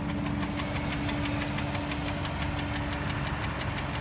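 Dodge Durango's 4.7-litre V8 running with the hood open, with a rapid, even tick over the engine sound. The owner doesn't know what is causing the tick; his mechanic judged it could be driven a long while before it has any effect.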